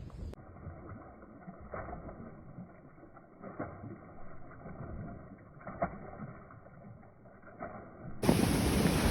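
Four faint brief knocks about two seconds apart over a low rumble, then wind buffeting the microphone loudly near the end.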